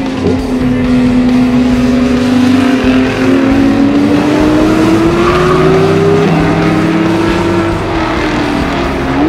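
Race car engine running hard at high revs past the track, its note holding steady for a few seconds and then climbing slowly as the car accelerates before easing off near the end.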